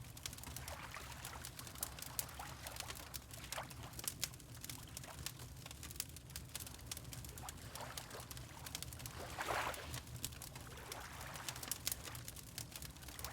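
Water lapping in soft swells, the strongest about halfway through, over the steady crackle and small pops of a wood fire, with a low steady rumble underneath.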